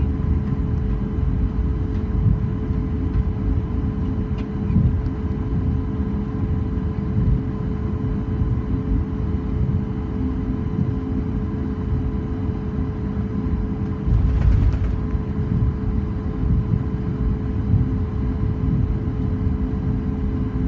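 Cabin noise of a Boeing 737 MAX 8 taxiing after landing: a steady low rumble with a constant hum from its CFM LEAP-1B engines at idle and the wheels rolling on the taxiway. The rumble briefly grows louder about fourteen seconds in.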